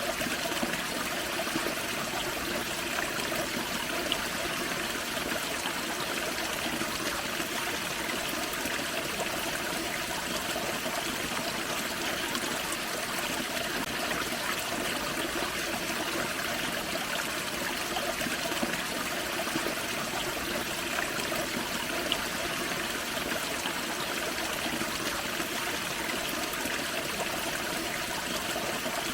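Small forest creek waterfall: water splashing and trickling steadily over rocks, with a few faint drips or ticks on top.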